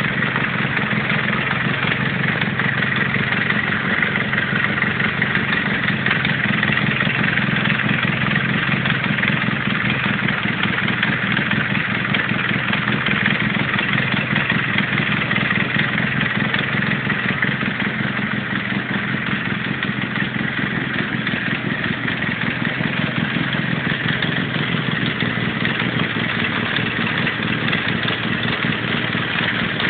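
Austin Mini's four-cylinder A-series engine running steadily at idle on an engine stand, out of the car.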